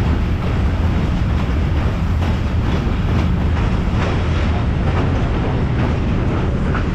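Excursion passenger train rolling along the track: a steady low rumble of wheels on rails with faint, irregular clicks from the rail joints.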